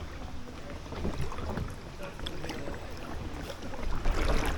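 Kayak paddle strokes dipping and splashing in the water, with gusty wind rumbling on the microphone; the splashing grows louder about four seconds in.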